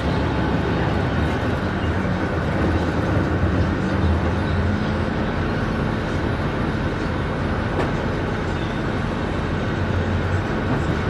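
Scania K310IB bus's diesel engine running with a steady low drone under road and running noise, swelling and easing slightly a few times.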